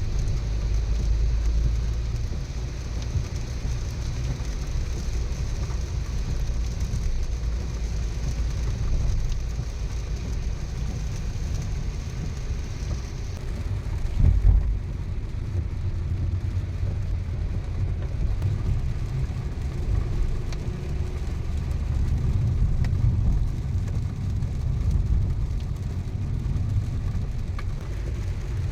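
Car driving in the rain, heard from inside the cabin: steady low engine and road rumble. A high hiss cuts off about halfway through, and a single thump follows shortly after.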